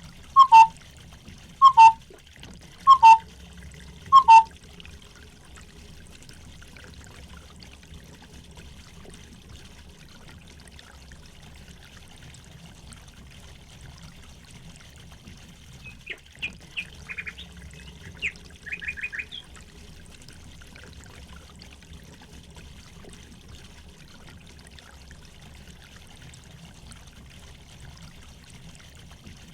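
Water trickling steadily, with birds calling over it: four loud, short, downward-sliding calls a little over a second apart near the start, then a brief run of higher, quicker chirps about two-thirds of the way through.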